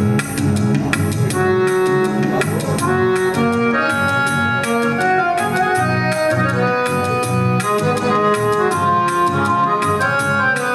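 Roland EX20 portable keyboard playing a melody of held notes in its harmonium voice, over a drum-rhythm accompaniment.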